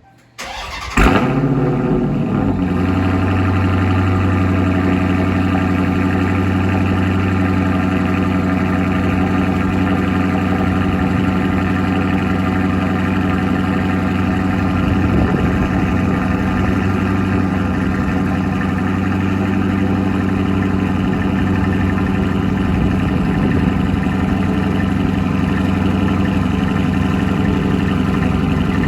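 2023 Dodge Challenger Scat Pack's 6.4-litre HEMI V8 through a Borla ATAK cat-back exhaust, cold-started: the starter cranks, the engine catches with a loud flare about a second in, then settles into a steady cold idle.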